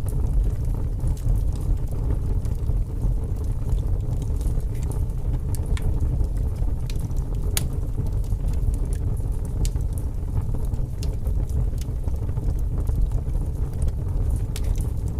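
Wood fire burning in a fireplace: a steady low rumble of the flames with scattered sharp crackles and pops, one louder pop about halfway through.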